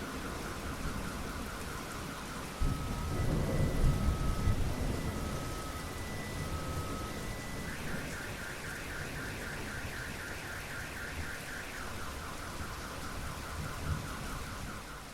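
Steady heavy rain with a thunder rumble that breaks in suddenly about two and a half seconds in and rolls off over the next few seconds. Behind it a high electronic alarm tone repeats, switching from a fast warble to alternating two-note beeps and back to the warble.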